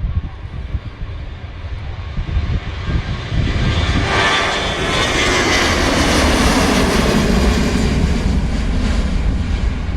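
Airbus A321-200 jet airliner climbing out after takeoff. Its engine roar swells loud about three and a half seconds in, then falls in pitch as it passes and begins to fade near the end.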